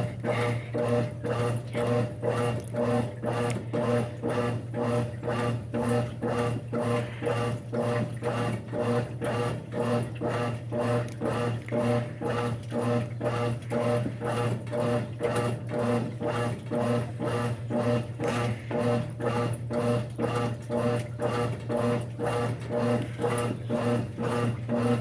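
Brastemp 5 kg washing machine running: a steady motor hum with an even pulsing churn about two times a second.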